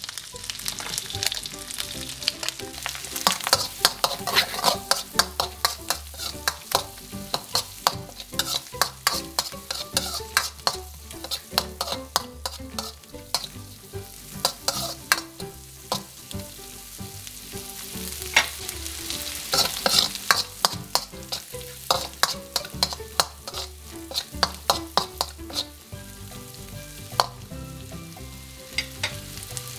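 Sliced shallots and garlic sizzling in oil in a metal wok, with a metal spoon scraping and clacking against the wok many times as they are stirred.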